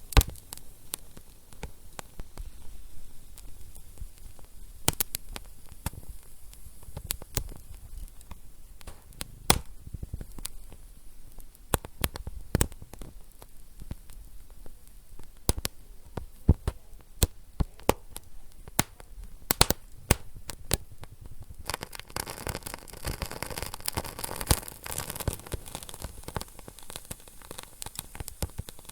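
Wood fire in a fireplace crackling: sharp irregular pops and snaps over a low hiss, the hiss growing fuller about three-quarters of the way through.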